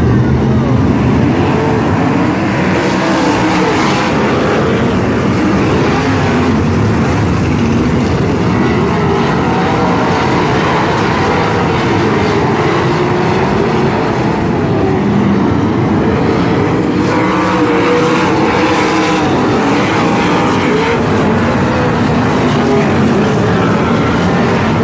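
Several sprint car engines racing around the track, loud and continuous, their pitch rising and falling over and over as the cars throttle down and back up through the turns and pass by.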